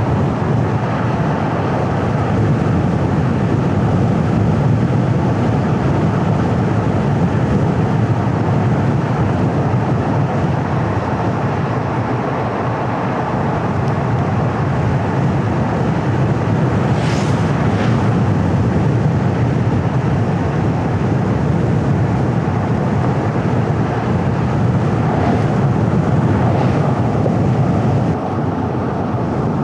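Steady road noise of a car driving along a paved mountain road: tyre roar and engine with wind, heaviest in the low range. A short, sharper hiss rises briefly a little past the middle.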